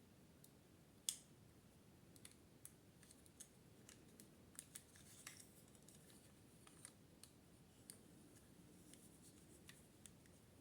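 Near silence with scattered faint clicks and taps, light handling of small hard objects, the sharpest click about a second in.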